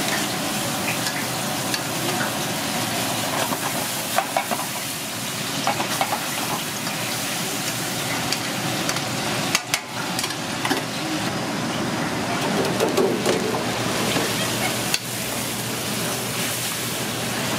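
Food frying in hot oil in a pan, sizzling steadily, with a few light clicks of utensils against the pan.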